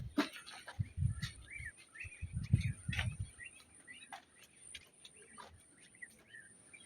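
Small birds chirping repeatedly, with a few dull low thumps in the first three seconds.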